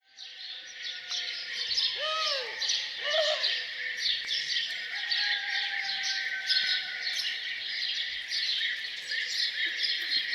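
A chorus of many songbirds chirping and singing densely without pause, with two lower arching calls about two and three seconds in.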